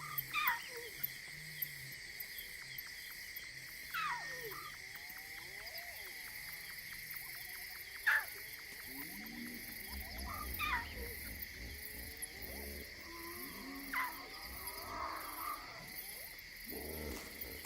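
Lion cub calling for its pride, about five high cries each falling steeply in pitch, spaced roughly four seconds apart, over a steady night insect chorus.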